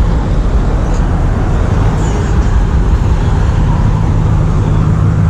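Car engines and road traffic rumbling steadily, with one engine's low hum growing stronger near the end.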